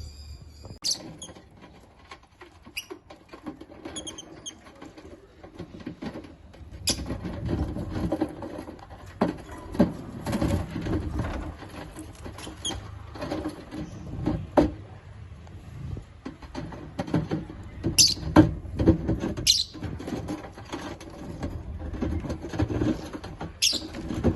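African lovebirds moving about in a cage: scratching, tapping and rustling, with a handful of brief, sharp high chirps.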